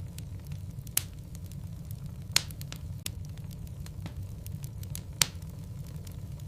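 Wood logs burning in a fireplace, crackling with scattered small clicks over a steady low rumble. Three sharp pops stand out, about one, two and a half, and five seconds in.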